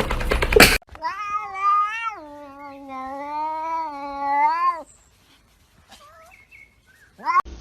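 A domestic cat's long, drawn-out yowling meow lasting about four seconds, its pitch wavering and dropping partway through, followed by a few short, fainter meows. It is preceded by a brief clatter of clicks in the first second.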